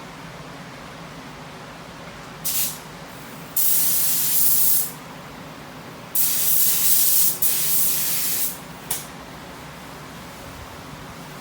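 Mini touch-up paint spray gun hissing in separate trigger pulls: a brief puff, then three bursts of about a second each, and a last short puff.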